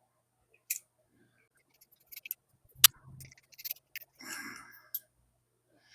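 Scattered small clicks, taps and a brief scrape of a microscope's parts being handled while it is taken apart, with one sharper click a little under three seconds in.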